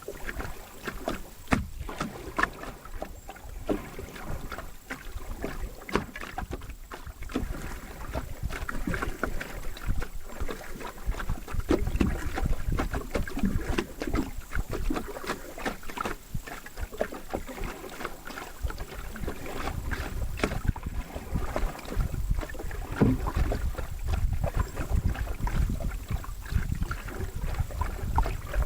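Canoe being paddled: scattered splashes and dripping from the paddle and knocks against the hull, with wind rumbling on the microphone at times, more strongly in the second half.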